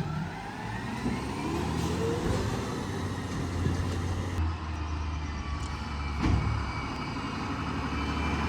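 Garbage truck's diesel engine running, its pitch rising in the first couple of seconds and then holding steady. A single sharp knock comes about six seconds in.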